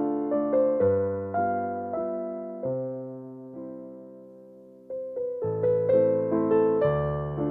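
Gentle solo piano music: notes struck and left to ring, a chord fading away about halfway through before the playing picks up again.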